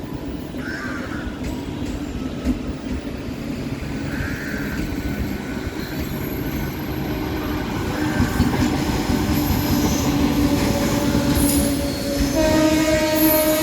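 Freight train of automobile carrier wagons on Indian Railways running along the track with a steady rumble of wheels that grows louder, with a few brief wheel squeals. About twelve seconds in the locomotive's horn starts and is held to the end.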